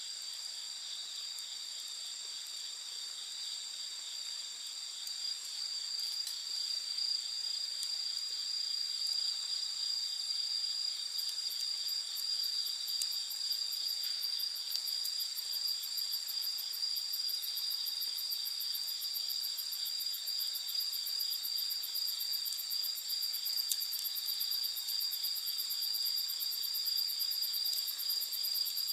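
Night insects trilling steadily at several high pitches. About a third of the way in, a second, very high, fast-pulsing chirp joins and the chorus grows somewhat louder.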